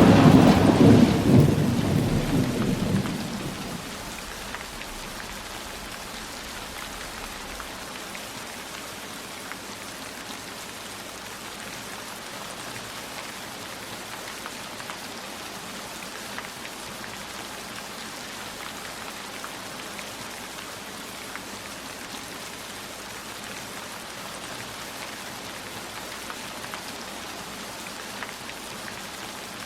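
A roll of thunder dying away in the first few seconds, then steady heavy rain falling, with faint scattered drop patters.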